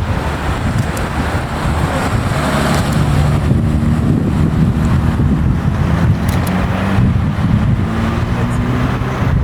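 A classic car's engine running close by at low, fairly steady revs, a little louder from about three seconds in.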